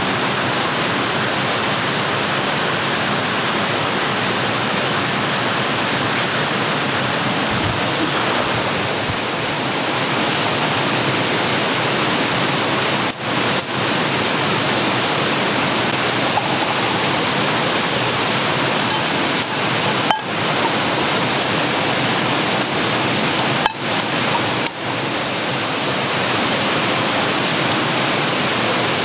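Steady rushing noise like flowing water, dipping briefly a few times.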